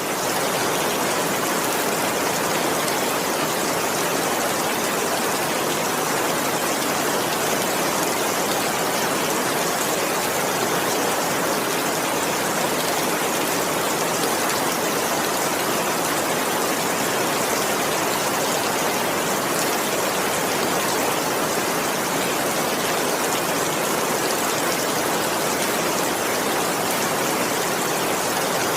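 Steady rain, an even unbroken hiss of falling water with no individual drops standing out.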